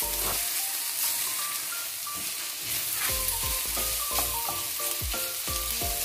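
Sliced onions with crushed ginger and garlic sizzling in hot oil in a wok, stirred and turned over with a wooden spatula. Background music plays underneath.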